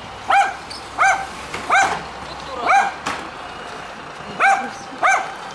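Stray dogs barking repeatedly: about seven loud, sharp barks, evenly spaced at first, with a pause of a second or so in the middle before the barking resumes.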